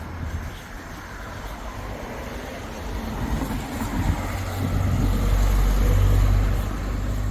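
A road vehicle going past, its engine and tyre noise building from about three seconds in, loudest about six seconds in, then easing off.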